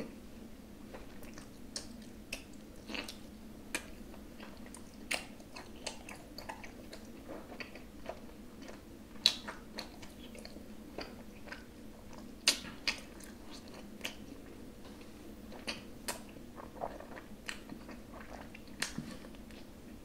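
Chewing a large mouthful of hamburger with the mouth closed: irregular wet smacks and clicks, with two louder smacks about nine and twelve and a half seconds in.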